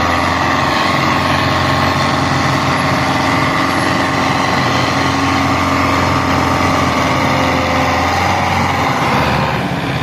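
Tractor diesel engine running steadily and hard, easing off just before the end.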